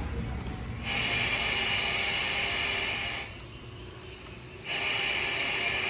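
Two-way radio hissing with static from its speaker: the hiss comes on about a second in, drops away after about two seconds, and comes back near the end.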